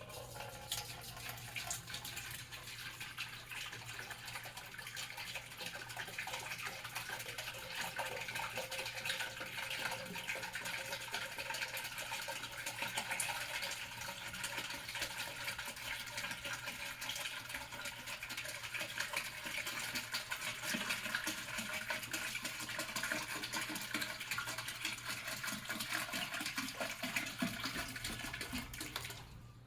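Water pouring steadily, filling the tank of a top-fill ultrasonic humidifier. The pouring stops abruptly near the end.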